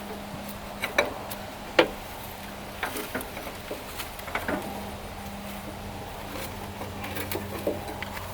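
Scattered metal clinks and knocks of a wrench and parts being handled, about a dozen irregular taps with the sharpest one about two seconds in, over a steady low hum.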